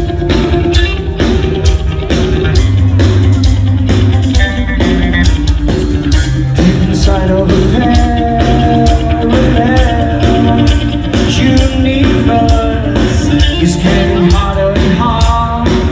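Live rock band playing: a drum kit keeping a steady beat under bass and electric guitar, with a lead melody coming in about halfway through.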